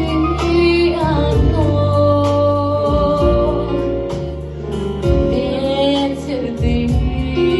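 Song with a female singing voice carrying a sustained melody over a backing track with bass and guitar.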